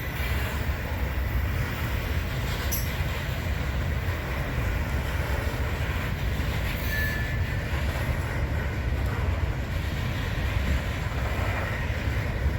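Loaded coal train's hopper cars rolling past on the rails, a steady low rumble with a sharp click about three seconds in and a brief high wheel squeal about seven seconds in.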